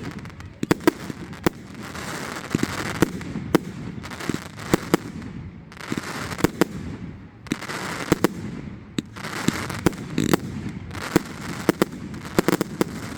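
Fireworks display: many sharp bangs from bursting aerial shells at irregular intervals, over continuous crackling.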